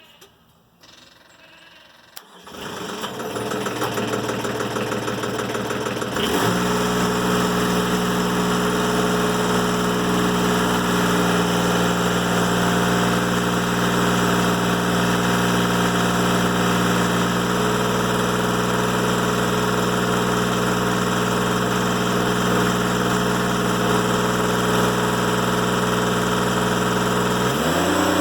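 Timberking 1400 sawmill's engine starting about two seconds in and building up. At about six seconds it steps up to a steady high running speed with an even hum. Near the end its pitch dips briefly and recovers.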